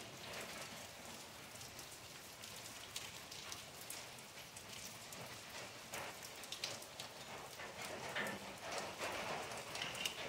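Rain falling on a wet concrete yard: an even hiss with many scattered ticks of single drops.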